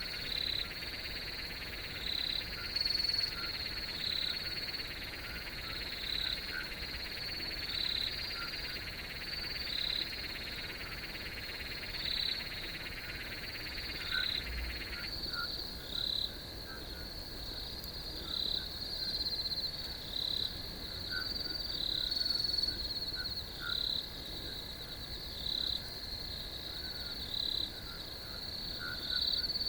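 Night chorus of crickets: a steady high trill with chirps repeating about once a second. A lower buzzing layer cuts off suddenly about halfway through.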